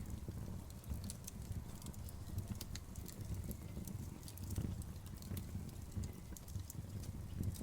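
Outdoor bonfire crackling, with irregular sharp pops and snaps over a low steady rumble of burning.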